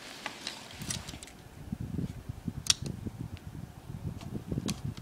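Handling noise: soft knocks and rustles with a few sharp clicks, as laptop parts or the recording device are moved about by hand.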